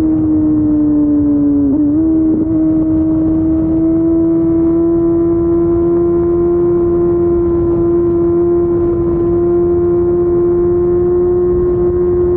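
Kawasaki ZX-14R's inline-four engine running through an Akrapovic Racing Line exhaust at a steady cruise. The note sags slightly, dips and recovers briefly about two seconds in, then holds steady and rises slowly.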